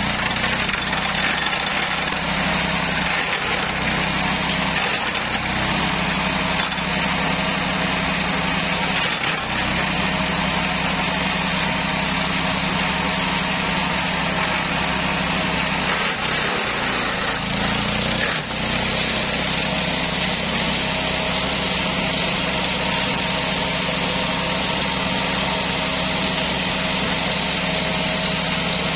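Engine of a homemade 80 cm, 13 HP flail mower running steadily while its flail rotor chops through grass. The engine note sags briefly a few times as the cutting loads it.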